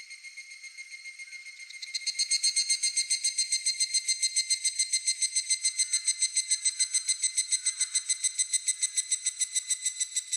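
Higurashi (evening cicada) calling: a ringing, rapidly pulsed call, about seven pulses a second. It is faint at first, then grows loud and regular about two seconds in.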